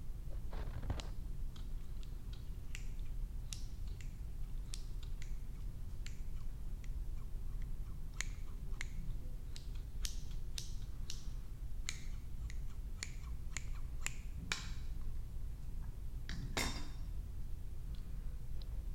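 Irregular, sharp, crisp clicks and snaps close to the microphone, a few each second, over a low steady hum.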